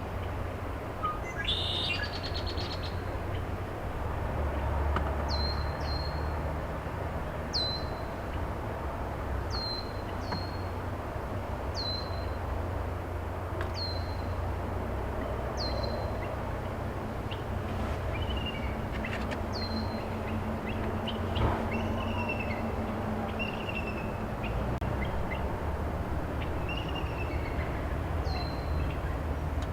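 Wild birds calling: a sharp, high, falling note repeated every second or two, sometimes doubled, joined about two-thirds of the way in by lower, warbled notes from another bird. A steady low rumble runs underneath.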